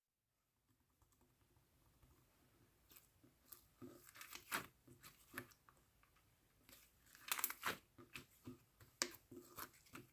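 Mixed slime being squished and worked by hand, giving faint sticky crackles and popping clicks, in clusters about four and a half, seven and a half and nine seconds in.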